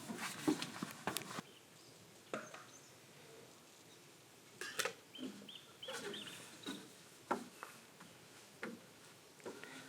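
Scattered light clicks and knocks, with a few short bird chirps in the woods behind.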